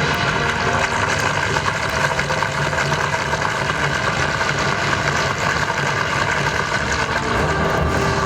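Soundtrack of a projection-mapping show played loud over outdoor loudspeakers: a dense, steady rumbling wash with held tones over it and no clear beat.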